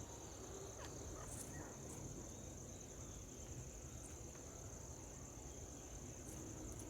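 Steady, high-pitched insect trill running without a break, with a few faint short ticks at scattered moments.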